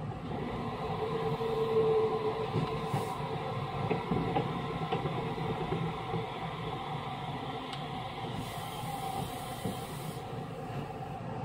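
Running noise inside an Osaka Metro 66 series commuter train with refurbished electrical equipment: a steady hum of the traction equipment and wheels on the rails, with a few faint clicks.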